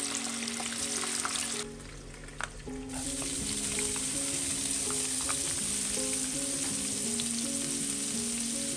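Hot oil sizzling as tofu pieces fry in a wok. After a brief dip about two seconds in, chopped shallots and garlic sizzle as they start to sauté in oil in a second wok. Soft background music plays underneath.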